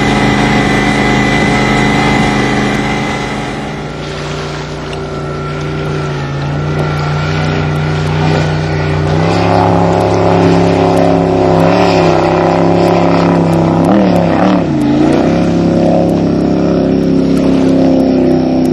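Blower-supercharged 468 cubic-inch Chevy V8 in a jet boat running loud and steady, dipping briefly about four seconds in. About nine seconds in the engine speed steps up, and a few seconds later it is blipped, its pitch rising and falling several times.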